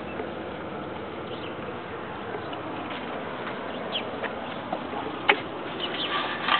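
The 3.1-litre V6 of a 1994 Chevrolet Cavalier Z24 idling steadily with the serpentine belt removed, and no whine. A few short clicks or chirps sound over it, the sharpest about five seconds in.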